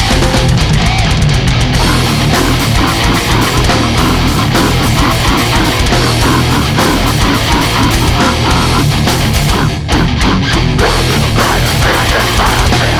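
Extreme metal music at full volume: heavily distorted guitars over dense, very fast drumming. There is a brief break a little before the ten-second mark, then the band comes straight back in.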